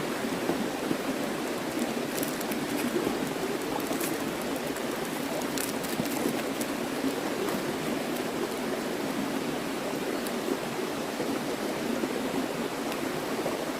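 A small river running steadily over rocks, an even rush of water. A few faint light clicks sound over it in the first six seconds.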